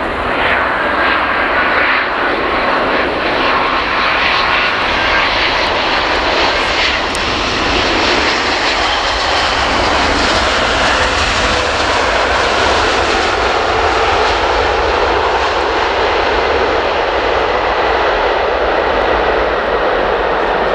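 Airbus A350-1000's Rolls-Royce Trent XWB jet engines on arrival, a loud steady roar with a faint whine that slowly falls in pitch.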